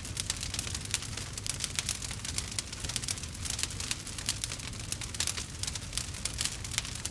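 Wood fire burning in a fireplace, crackling with many quick sharp pops over a low steady rumble.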